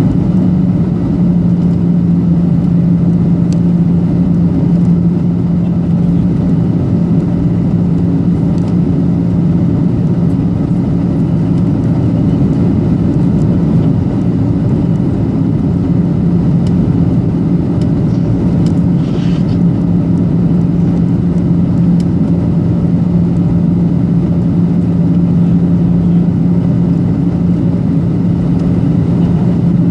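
Cabin noise of a Boeing 737-800 on approach: its CFM56-7B jet engines and the airflow make a steady rumble with a low drone.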